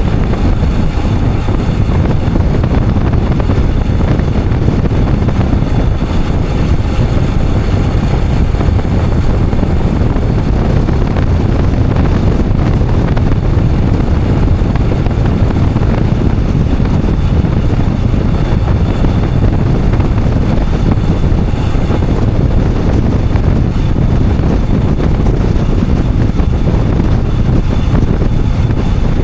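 Royal Enfield Himalayan 411's single-cylinder engine running steadily under way, mixed with a dense, steady low rumble of wind and road noise on the microphone.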